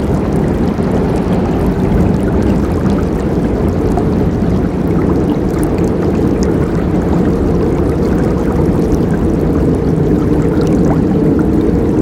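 River water rushing and gurgling over rocks, a steady, loud, low churning flow with a few faint splashes and ticks above it.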